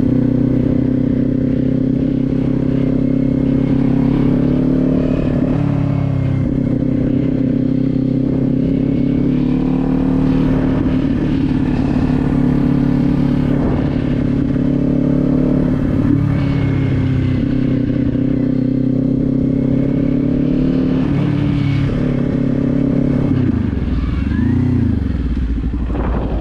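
Kawasaki Z400 parallel-twin engine running at steady riding revs, with brief dips in revs a few times. Near the end the revs fall away, rise and fall once more, and settle into a low steady note.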